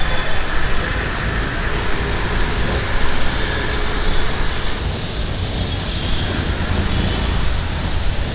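Steady rumbling noise of a moving vehicle, with no distinct knocks or horns; the hiss grows brighter about five seconds in.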